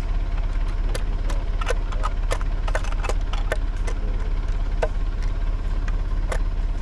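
A backhoe tractor's engine idles steadily while a hammer knocks on a stuck bolt of a steel deer feeder. The irregular metallic taps and clinks come several to a second in the first half, with one more about six seconds in.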